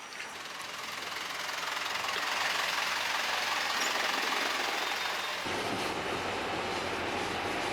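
A city bus pulling up to the stop, its engine and tyres growing louder over the first few seconds and then holding steady. A low engine rumble comes in about five seconds in as the bus draws close.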